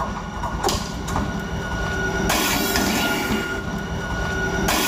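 A locomotive approaching along the track: rail and wheel noise with a steady high ringing tone, a few sharp clicks in the first second, and a louder rushing hiss from about two seconds in as it comes closer.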